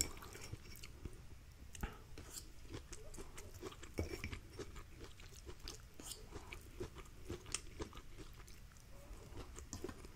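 Faint, close-miked chewing of a mouthful of food: soft, wet mouth clicks and small crunches coming irregularly.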